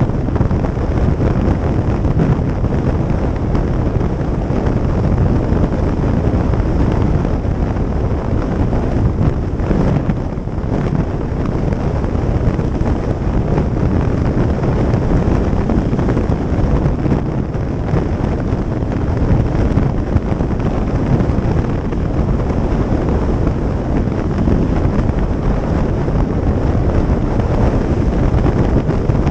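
Steady wind rush on the microphone of a camera riding on a moving motorcycle, loud and low-pitched, with vehicle noise underneath.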